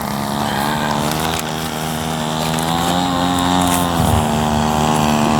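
Small high-revving model airplane engine droning steadily, its pitch creeping up and then falling away about four seconds in, as it would when a plane passes.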